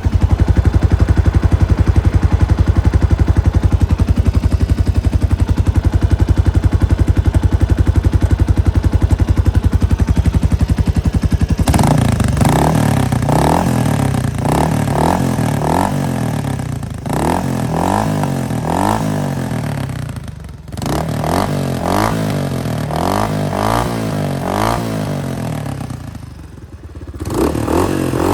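Kawasaki Estrella RS's single-cylinder engine idling steadily with an even, fast beat, then from about twelve seconds in revved up and down again and again with quick throttle blips, falling back to a low idle twice.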